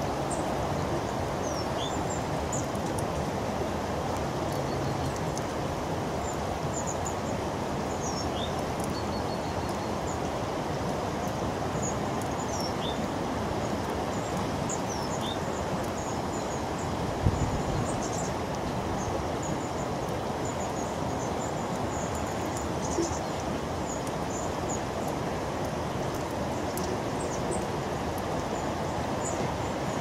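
Small birds giving scattered short, high-pitched calls over a steady background rumble, with a single thump about seventeen seconds in.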